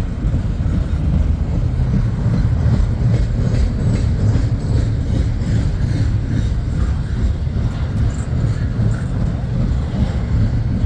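A long intermodal freight train's double-stack container cars rolling past: a steady, loud, low rumble of steel wheels on rail.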